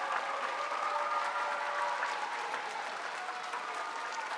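Audience of schoolchildren applauding steadily.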